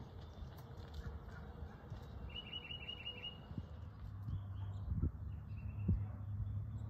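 Songbirds calling: a quick trill of about six high notes a little over two seconds in, then scattered short chirps, over a steady low rumble, with a few soft thumps toward the end.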